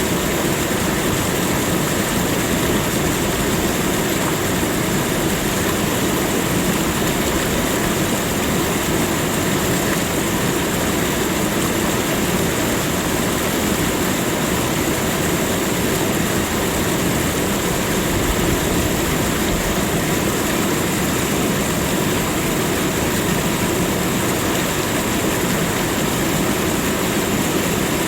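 Steady rushing of flowing water, an unbroken noise with no distinct events.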